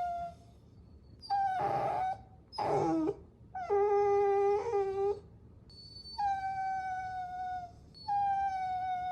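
Puppy whining: a string of about five high, drawn-out whines with short pauses between them, one sliding down in pitch and one lower and longer.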